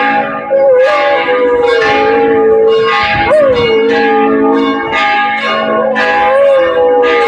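A dog howling along with ringing church bells. The howl is a long held note that swoops up and sinks back a few times, while the bells strike about once a second.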